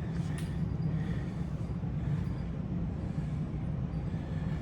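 Steady low background hum, with no distinct events standing out.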